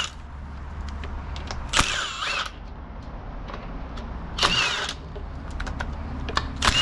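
Cordless power driver backing out the timing chain guide bolts in short bursts of about half a second, twice with a third starting at the end, with small clicks of tool and metal parts between.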